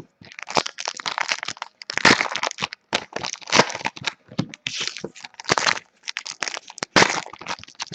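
Trading-card pack wrappers crinkling and tearing as packs are opened and handled, a quick run of irregular crackles.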